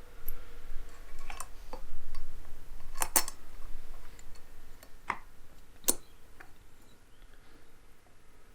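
Small metal screws and an Allen key clinking and clicking as the screws are picked up and fitted: a handful of sharp, irregularly spaced clinks, the loudest a quick pair about three seconds in and another near six seconds.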